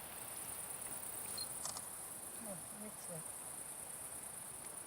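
A chorus of insects chirring steadily and high-pitched, with a faint click about a second and a half in.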